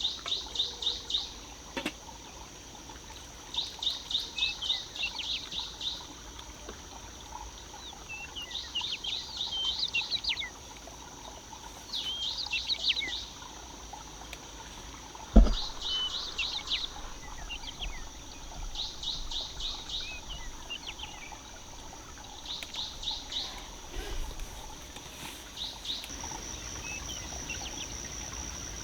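A songbird repeating short trilled phrases every few seconds, over a steady high-pitched hum. A single sharp knock comes about fifteen seconds in.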